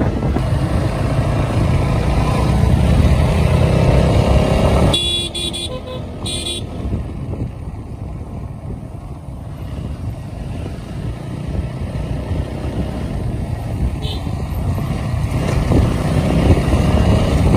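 Motorcycle riding in traffic: steady engine and road rumble with wind noise on the microphone, and a vehicle horn sounding briefly about five seconds in.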